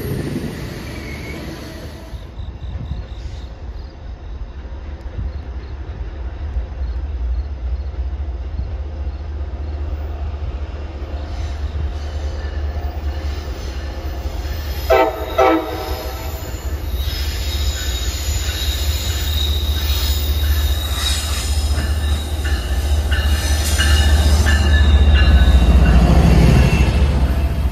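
Passenger trains on the tracks: a steady low rumble, two short horn blasts about halfway through from an approaching train, then the rising rumble and wheel noise of the train passing close by, loudest near the end.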